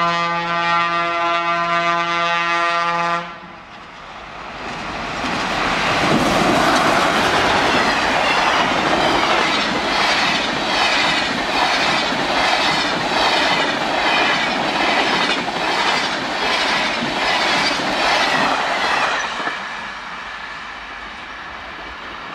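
Electric locomotive E-3020 sounding a long, steady horn blast that stops abruptly about three seconds in. Then the locomotive and its passenger cars rush past at high speed. The wheels make a regular clatter over the rail joints, and the sound fades as the train recedes near the end.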